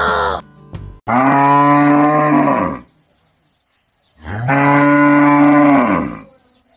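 Cattle mooing: two long moos, the first about a second in and the second about four seconds in, each rising a little and dropping away at its end.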